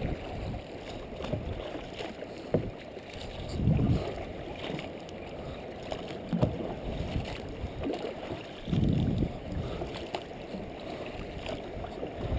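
Water sloshing and splashing around a kayak as it is paddled, with wind on the microphone, swelling louder twice (about 4 and 9 seconds in) and a few sharp knocks.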